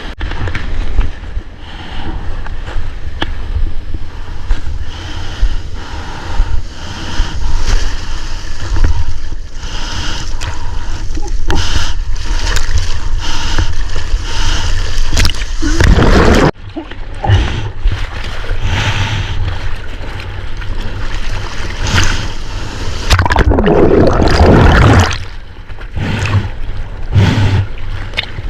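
Water splashing and churning around a GoPro as a surfer wades and paddles out through the surf, with a steady rumble of wind buffeting the microphone.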